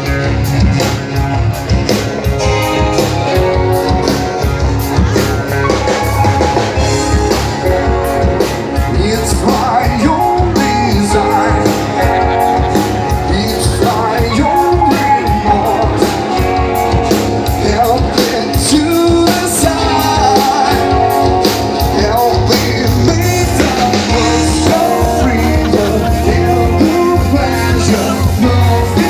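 A rock band playing live, with a singer over electric guitar, bass and drum kit.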